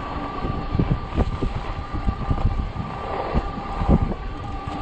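Ecotric 48 V fat-tire e-bike riding over uneven snow: a steady motor whine, with irregular knocks and thumps from the fat tyres and frame over the bumpy snow, and wind noise on the microphone.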